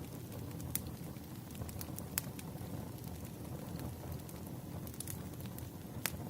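Wood fire crackling: a steady low rumble of burning logs with scattered sharp pops, the strongest about two seconds in and another near the end.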